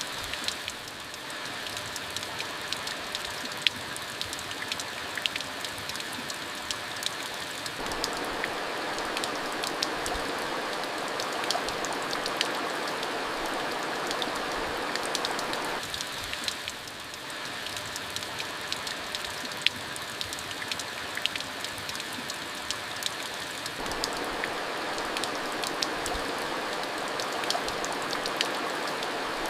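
Monsoon rain falling steadily, a constant hiss with many individual drops ticking sharply on hard surfaces.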